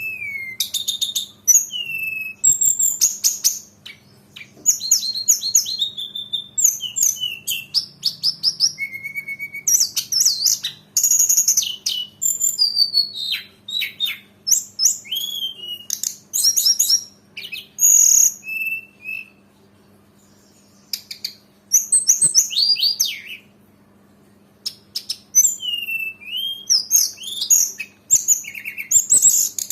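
A tledekan gunung (Sunda robin) singing energetically, pouring out a fast, varied string of high whistles, sweeping glides and rapid chattering notes, with two brief pauses past the middle. A faint steady low hum sits underneath.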